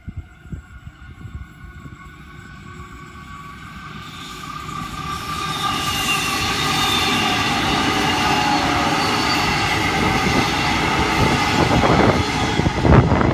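A Queensland Rail electric suburban train approaching and passing close by. Its whine and the rush of wheels on rail grow from faint to loud about four to six seconds in and stay loud while the carriages go past, with a few loud low thumps near the end.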